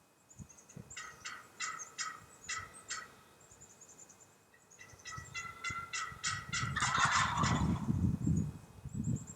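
Wild turkey gobbling twice, each gobble a quick rattling run of notes, the second one longer and louder. Low thumping and rustling sounds join in from about six seconds in.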